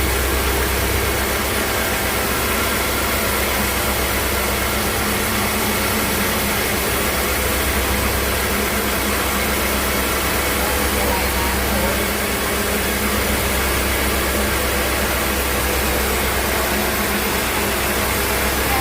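Sawmill machinery running steadily: a constant low engine hum under a continuous hiss, with no cutting strokes or impacts.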